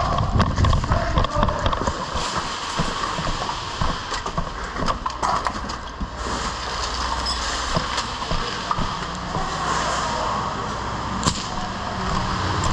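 Airsoft guns firing: scattered sharp pops and knocks, irregularly spaced, over a steady rushing background.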